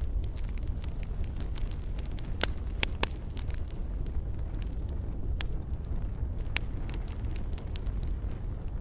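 Wood fire burning in a fireplace: a steady low rumble of flame with frequent irregular crackles and a few sharper pops.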